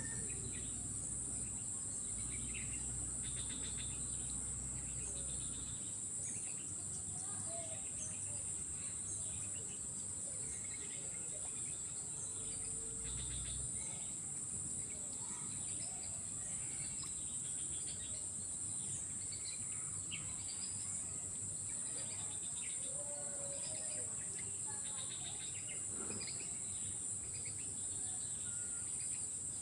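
Steady high-pitched insect chorus, with scattered short bird chirps.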